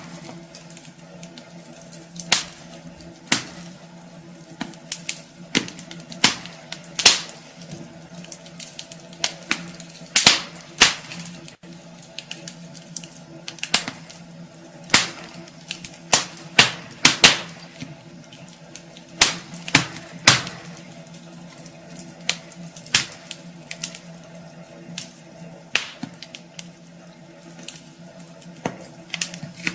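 Wood fire burning in a fireplace, the logs crackling with irregular sharp pops, several loud ones every few seconds, over a faint steady low hum.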